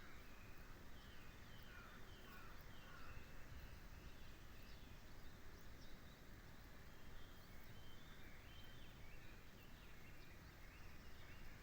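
Faint wild birds calling, many short chirps and quick sliding notes from several birds, over a steady low hiss of outdoor background noise.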